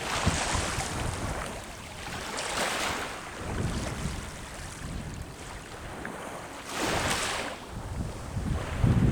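Waves breaking and washing up the shore in repeated swells, with wind buffeting the microphone in low rumbles.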